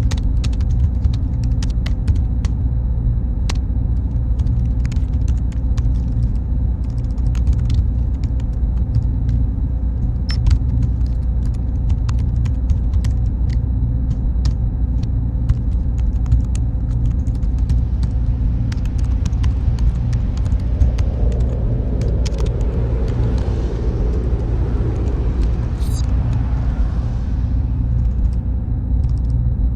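Server room ambience: a steady low hum of machine fans with a faint constant tone, scattered sharp clicks throughout, and a hiss that swells about two-thirds of the way in and then fades.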